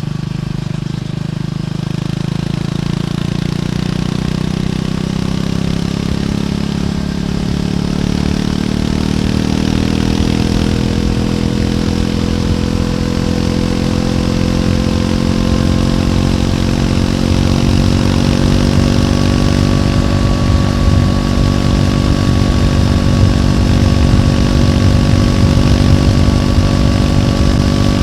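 Triumph Scrambler 400X's single-cylinder engine heard through its stock exhaust, pulling steadily with its pitch slowly rising over the first quarter-minute, then holding an even, steady note.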